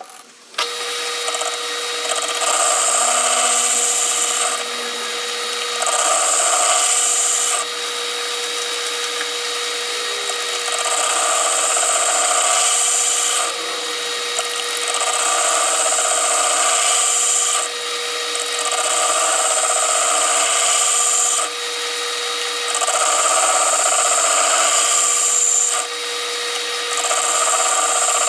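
Metal lathe running, its boring bar cutting the brazed-up bore of a cast-iron mower spindle housing. A steady whine runs underneath, and a louder cutting noise comes and goes every few seconds. The lathe starts up about half a second in.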